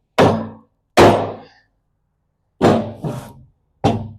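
About five heavy hammer blows thunk on a steel tooth bar, driving it onto the tractor loader bucket's cutting edge to seat it tight. The blows come unevenly, two about a second apart, then a pause, then three more in quicker succession.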